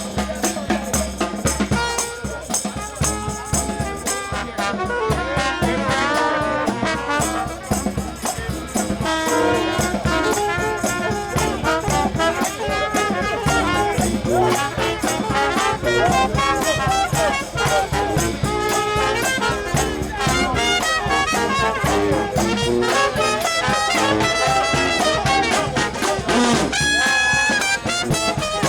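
New Orleans brass band playing a second line: trumpets and trombones over a steady bass drum beat.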